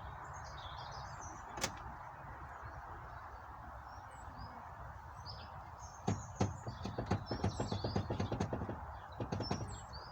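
Small birds chirping over a steady background hiss, with one sharp click early on and then a quick run of clicks for about three seconds starting just past the middle.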